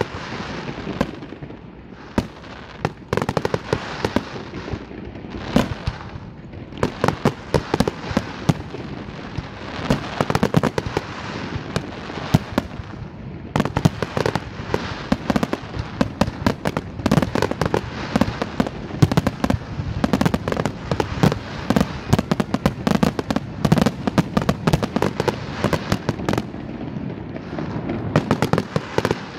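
Aerial fireworks display with shells bursting in quick succession: a continuous rumble under many sharp bangs and crackles. The bursts come sparser at first and become a dense, almost unbroken barrage from about seven seconds in.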